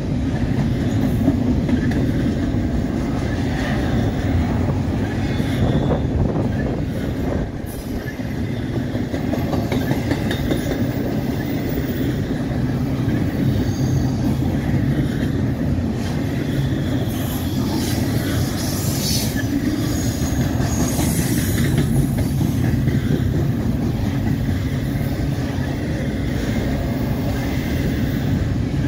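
Double-stack intermodal well cars rolling past: a steady rumble of steel wheels on the rail, with brief high wheel squeals around the middle.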